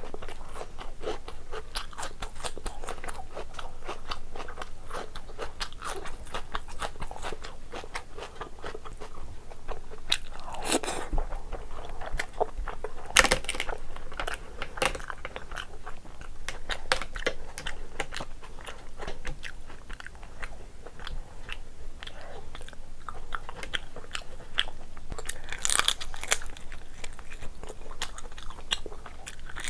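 Close-miked eating sounds: wet chewing with many small crunchy bites and mouth clicks, as lobster, rice and raw onion are eaten by hand. A few louder crunches stand out, at about 11, 13 and 26 seconds in.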